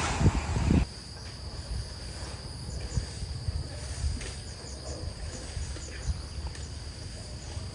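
Insects shrilling steadily in a high, even drone, the outdoor chorus of a tropical Thai afternoon. A loud low rumble in the first second cuts off abruptly.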